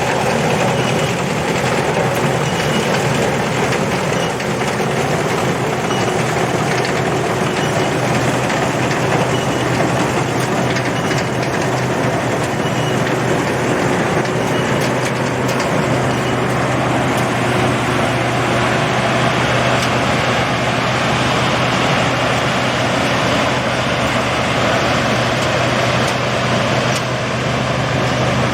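Combine harvester running steadily, a continuous engine drone with dense machine noise over it.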